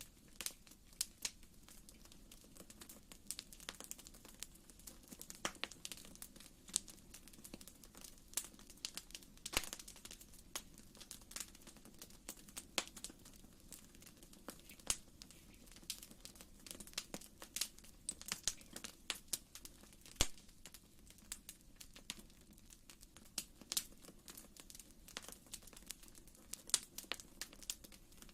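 Wood fire in a fireplace crackling: irregular sharp pops and snaps, several a second, over a faint low rumble.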